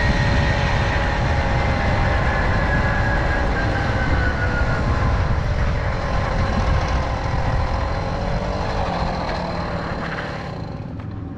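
Tomos Silver Bullet moped's small two-stroke engine running under way, its note slowly falling in pitch as the moped eases off, with a heavy low rumble of wind noise under the engine.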